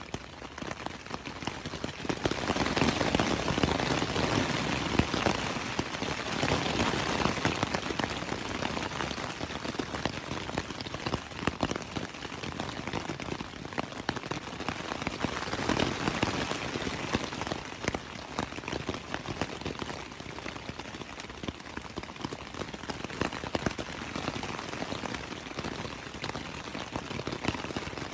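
Rain falling on a tent's fabric, heard from inside the tent as a dense patter of drops. The shower grows heavier about two seconds in, then eases and swells again.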